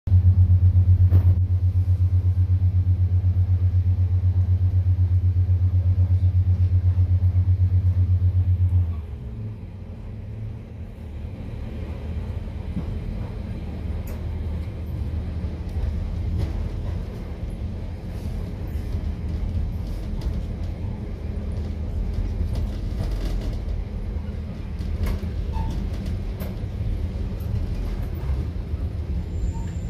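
Pacer railbus heard from inside the carriage: a loud, steady low drone for about the first nine seconds, then it drops to the quieter rumble of the car running along the track, with scattered clicks and knocks.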